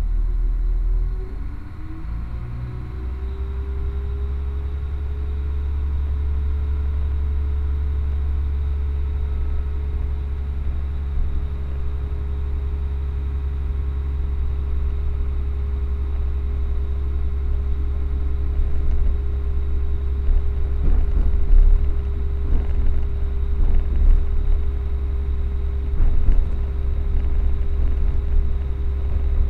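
Passenger train heard from inside the carriage as it pulls away: a steady low rumble with a held humming tone, growing louder over the first several seconds. From about two-thirds of the way through, the wheels knock repeatedly over rail joints and points.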